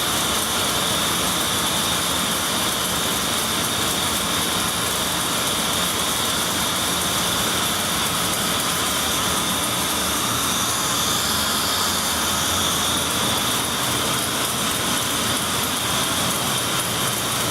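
Steady, even machine noise with a faint high whine, holding unchanged throughout.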